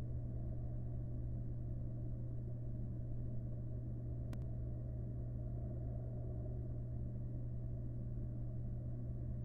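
Steady low electrical hum and rumble from a nest-box camera's microphone, with one faint click about four seconds in.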